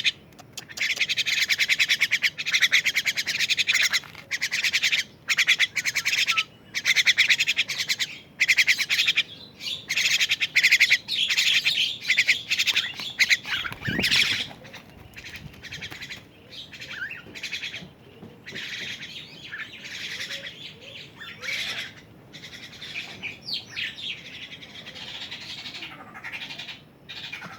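A 12-day-old thrush chick calling: rapid raspy chirps in bursts of a second or two, separated by short gaps. There is one knock about halfway through, and after it the calls are quieter and more scattered.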